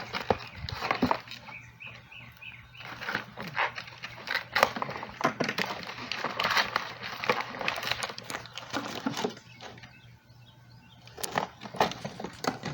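Packaging being worked open by hand: crackling, rustling and tearing with scattered sharp clicks and knocks as a fireworks launch tube is freed from its wrapping.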